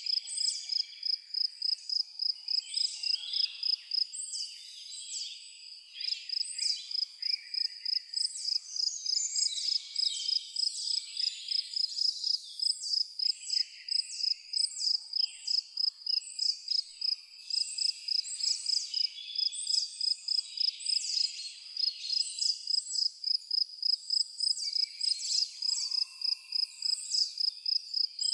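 Crickets chirping steadily in a high, even pulse of about three chirps a second, with birds singing short, repeated calls over them.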